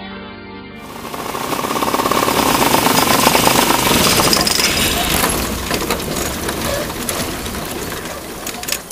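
Lazair II ultralight's KFM engine and propeller running, heard from the open cockpit as a loud, dense rattle that slowly eases off over the last few seconds.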